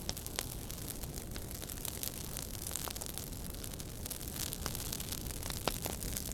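Wood fire in a fireplace crackling: frequent sharp pops and snaps, a few louder ones near the end, over a steady hiss and low rumble.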